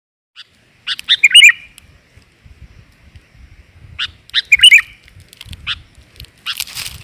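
Sooty-headed bulbul (kutilang) calls: two bursts of sharp chirps, each running into a bubbling warble, about a second in and again about four seconds in. A short rushing noise comes near the end.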